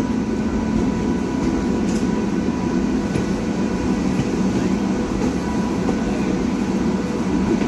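An electric suburban local train running at low speed, heard from on board: a steady rumble with faint steady whining tones above it.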